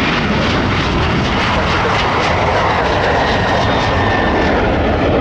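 Jet airliner's engines at takeoff power, a loud, steady rush of noise as the aircraft rolls and climbs out.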